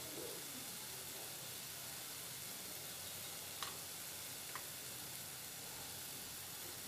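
Onion, tomato and cashew masala sizzling steadily in a pot on a gas flame, with two small pops from the frying near the middle.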